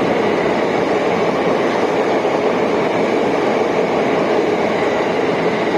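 Train running: a steady, even rush of wheel and running noise with no breaks.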